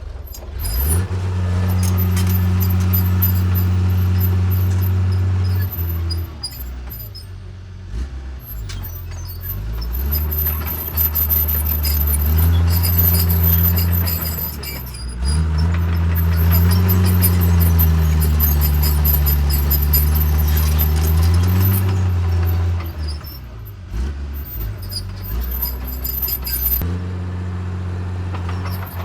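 Diesel engine of a Cat bulldozer working under load, its revs rising and falling repeatedly as it pushes soil. It eases off to a lower, quieter note around six seconds in and again near the end.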